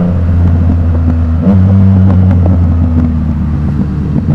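Yamaha MT-09's three-cylinder engine with an Akrapovic exhaust running while riding, its note stepping up in pitch about a second and a half in.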